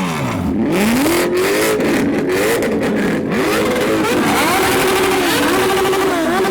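A Ford Mustang and two Suzuki motorbikes revving against each other at the same time. Several engine notes rise and fall over one another, with some briefly held steady at high revs.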